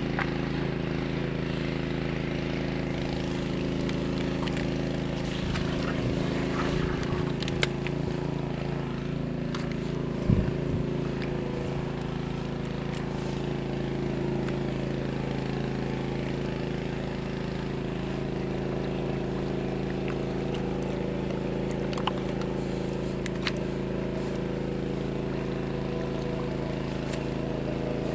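Tractor engine running steadily at constant speed, driving the pump that drains a fish pond. A few short knocks come through around a third of the way in.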